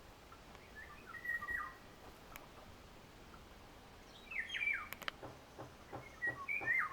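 A songbird calling: three short phrases of whistled notes that fall in pitch, a couple of seconds apart, with a few faint clicks between them.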